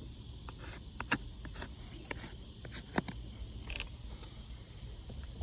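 Insects chirring steadily in the background, with scattered light clicks and knocks and a low rumble underneath.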